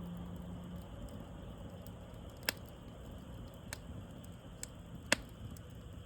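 Campfire burning with a low steady rumble and a few sharp crackles and pops of wood, two of them louder, at about two and a half and five seconds in.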